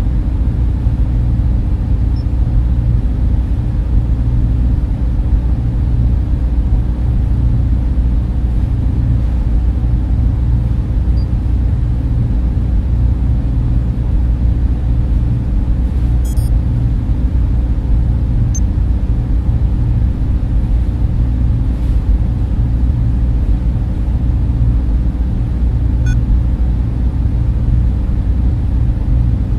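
Server room cooling fans and machines running with a steady, deep hum, its sound almost all low down and unchanging.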